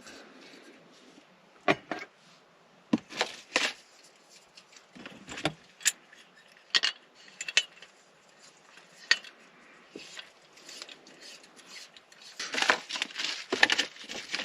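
Metal camp cookware and utensils clinking and clattering as they are handled: separate knocks and clinks spread through, then a busier run of clattering near the end.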